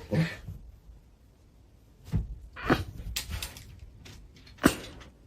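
A few short knocks and thumps, the sharpest just under five seconds in.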